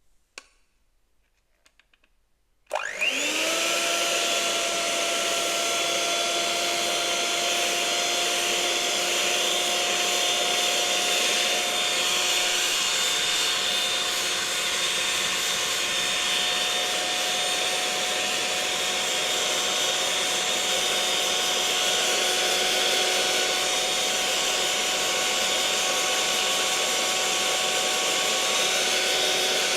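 Electric mixer switched on about three seconds in, its motor whine rising quickly to speed and then running steadily under a hiss of rushing air.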